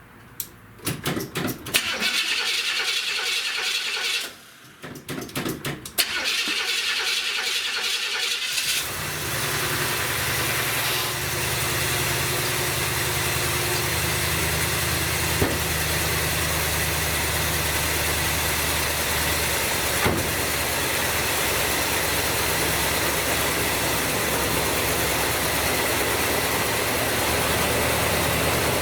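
1970 Buick Wildcat's 455 V8 on a cold start after sitting four weeks: the starter cranks it twice with a short pause between. It catches on the second try about nine seconds in, then idles steadily.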